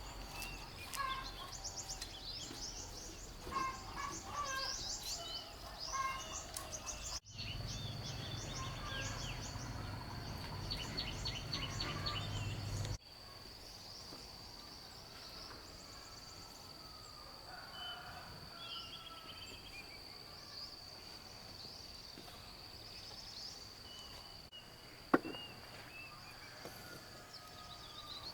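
Birds calling and chirping over outdoor background noise, with a steady high-pitched whine from about seven seconds in. A single sharp click comes near the end.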